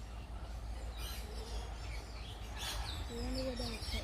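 Birds chirping intermittently over a low steady rumble of wind or handling noise on the microphone, with a brief low-pitched call about three seconds in.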